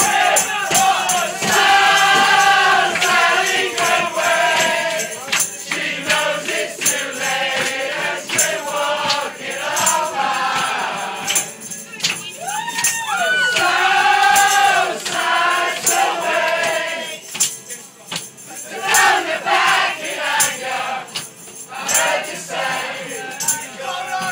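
A group of people singing along together loudly, with rattling hand percussion clicking along in time.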